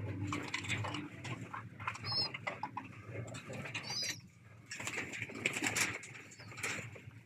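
Pigeons cooing at the loft. Short high chirps come twice, and there is a burst of rustling and scuffling a little past the middle.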